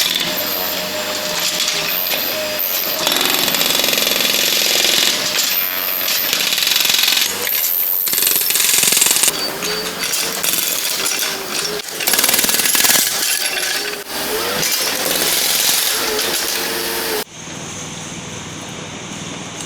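Concrete breaker hammering and hacking up a reinforced-concrete floor slab, loud and continuous with an engine's pitch rising and falling underneath. It stops abruptly near the end, leaving a quieter machine hum.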